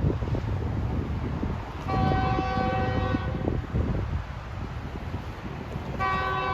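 Locomotive air horn sounding at a grade crossing: one long blast about two seconds in and a second starting near the end, a sustained chord of several pitches, over a steady low rumble.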